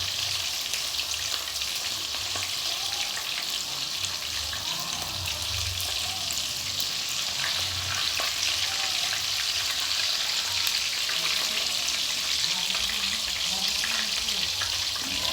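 Gravy cooking in a saucepan on the stove: a steady sizzling hiss, with some stirring.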